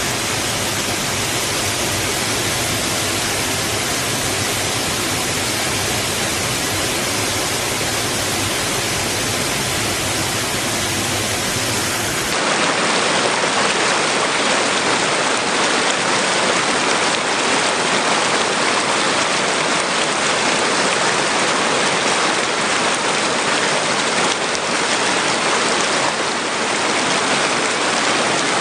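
Water rushing against rocks, a steady, continuous rush. About twelve seconds in it changes abruptly to a brighter, hissier rush with less low rumble.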